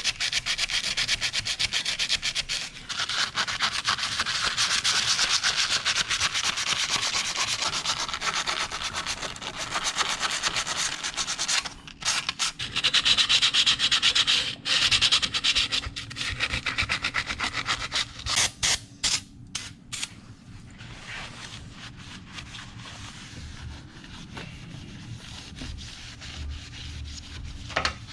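Sanding of rust spots on a steel mower deck: a steady scraping rasp that breaks off about halfway in, returns in a few short spells, then gives way to a handful of sharp clicks and a quieter stretch.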